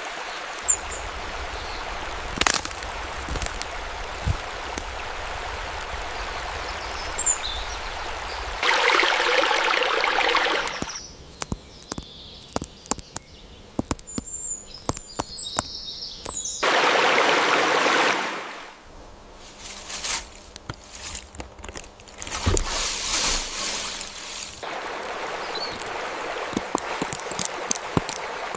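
Water of a small stream running and trickling, made of several spliced stretches, with two short louder rushing stretches, one about a third of the way in and one just past the middle. A few faint high bird chirps come in a quieter stretch in the middle.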